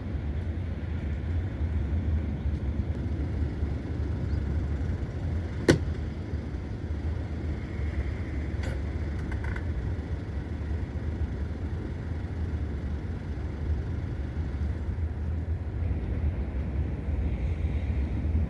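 Steady low rumble of outdoor background noise, with a single sharp click about six seconds in and a few faint ticks a few seconds later.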